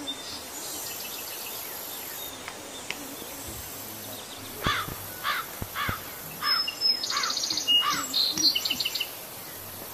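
Birds calling over a steady insect drone: about halfway through, a run of about six quick rising-and-falling notes, then higher, rapid chirping for a couple of seconds.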